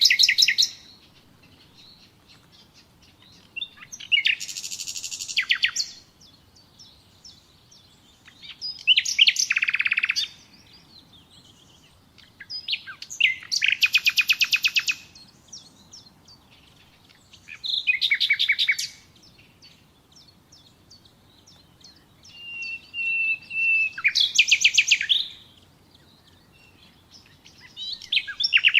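Common nightingale singing: a run of separate song phrases, each a couple of seconds long with short pauses between. The phrases mix rapid repeated trilling notes with a pure whistled note near the end.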